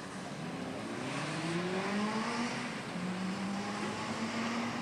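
A motor engine revving, its pitch rising over the first couple of seconds and then holding fairly steady.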